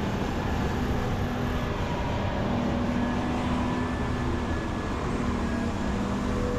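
Large Volvo 550 excavator's diesel engine running steadily under load, its engine tones coming and going as it digs.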